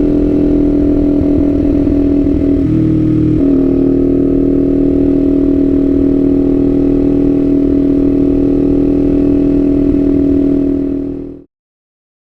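Kawasaki Z400 parallel-twin motorcycle engine running steadily, with a brief change in its note about three seconds in. The sound fades out near the end.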